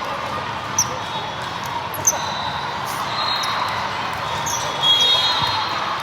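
Indoor volleyball game: sneakers squeak sharply on the court floor a few times over a steady murmur of spectator voices, with a louder swell of voices near the end.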